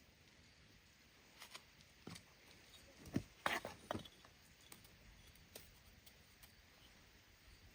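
A few faint, scattered clicks and knocks, with a short cluster of louder ones about three seconds in.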